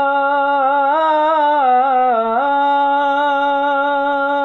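A single unaccompanied voice singing a Punjabi naat, holding one long note on the end of a line. Around the middle it wavers in an ornament and dips in pitch, then settles back on the held note.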